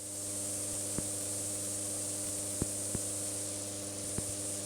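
Steady electrical hum and hiss on the cockpit intercom feed, with a few faint irregular ticks.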